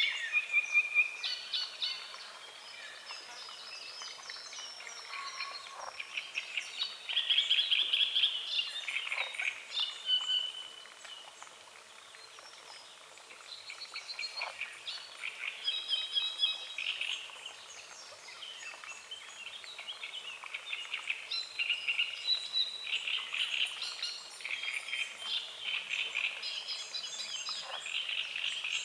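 A morning chorus of frogs croaking and birds singing over a lake, the croaking coming in dense, pulsing bursts every several seconds, with birdsong and chirps in between.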